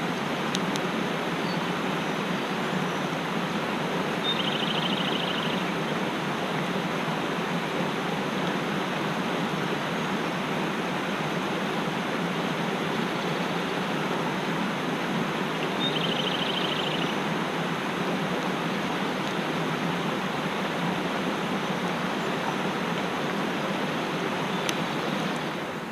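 Mountain stream rushing steadily. A bird gives a short, rapid trill twice, about four seconds in and again about sixteen seconds in.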